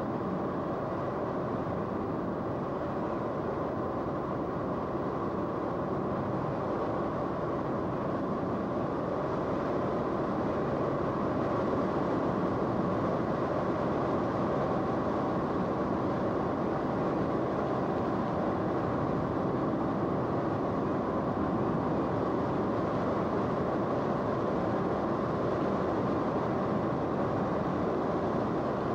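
Steady drone of an aircraft's engine heard from on board, with a few faint steady whining tones over it, growing slightly louder about a third of the way in.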